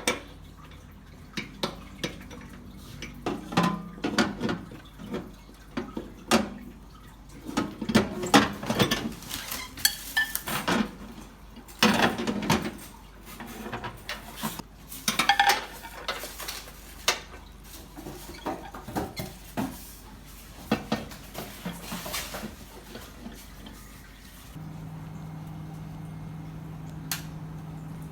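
Glass microwave turntable plate and its plastic roller ring clinking and knocking as they are handled and fitted into the microwave, in irregular clatters. A steady low hum sets in a few seconds before the end.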